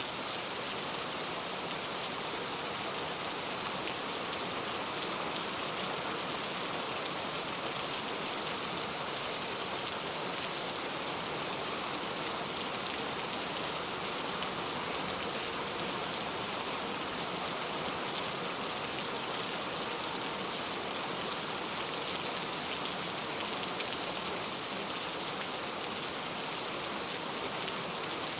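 Steady rain falling: an even, unbroken hiss of many drops that stays the same throughout.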